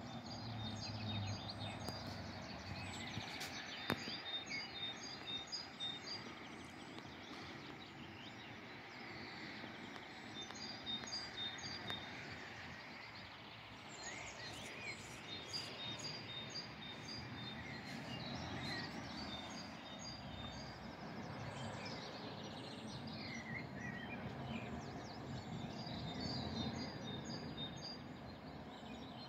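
Birds singing in short series of quick repeated high notes, coming back several times over steady outdoor background noise.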